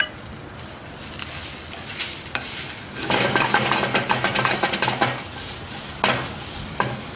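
Sliced onions sizzling in a hot, oiled frying pan over a gas flame. The sizzle swells for about two seconds in the middle as the pan is tossed, and sharp knocks of the pan come near the end.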